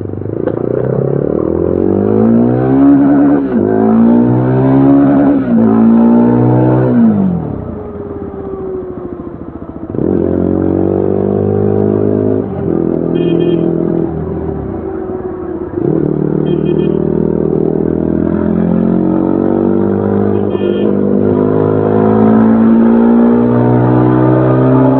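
2025 Yezdi Adventure's 334 cc single-cylinder engine and exhaust under way. The revs climb three times with quick gear changes in the first seven seconds, then drop off as the throttle closes. They pick up again about ten seconds in and climb through further gear changes.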